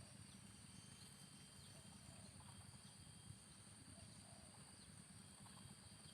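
Near silence: faint outdoor ambience with a steady high insect drone and faint soft calls repeating every second or two.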